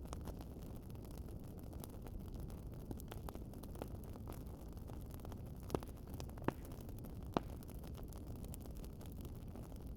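Wood fire crackling: a steady low rumble of burning with scattered small ticks, and three sharper pops past the middle.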